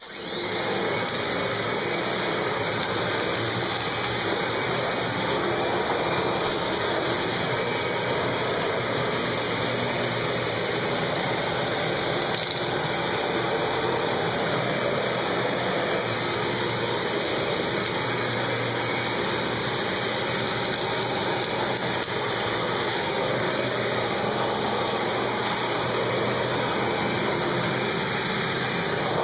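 Kirby G3 upright vacuum cleaner comes on and runs steadily at full power: a loud rush of air over a low motor hum as it sweeps up popcorn, dog hair and dirt from carpet, with a few faint ticks.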